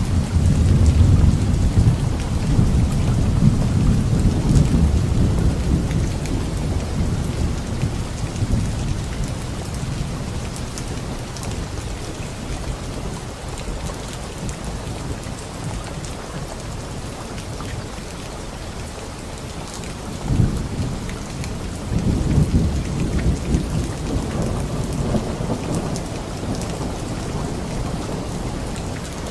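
Steady rain falling, with rolling thunder. A long low rumble in the first few seconds dies away slowly, and fresh rumbles break in about two-thirds of the way through.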